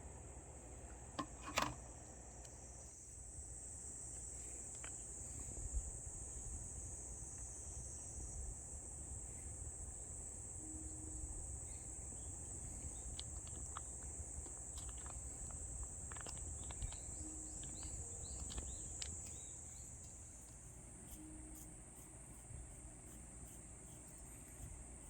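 Steady high-pitched drone of insects singing in the forest, with a single sharp click about a second and a half in.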